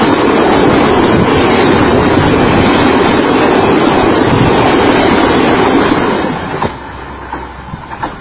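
Train running past at very close range, a loud continuous rumble and rattle that drops away suddenly about six and a half seconds in as the train clears.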